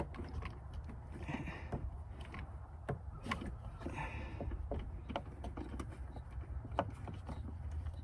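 Scattered light clicks and knocks of hand tools and metal parts as a valve cover is worked loose from an engine, with two short scraping sounds, over a steady low rumble.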